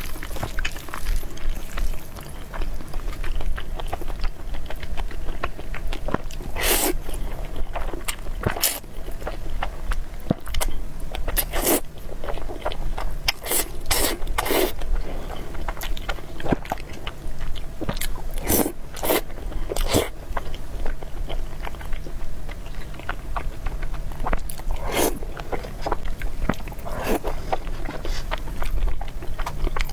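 A person eating noodles and meatballs: steady chewing, broken by about a dozen sharper, louder bites spread unevenly through.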